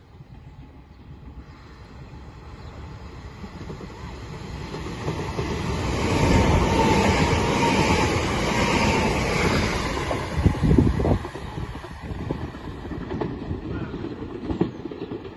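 Passenger multiple-unit train running in along the platform and passing close by, its noise building steadily to a peak and then falling away. A burst of wheel clatter over the rails comes about ten seconds in.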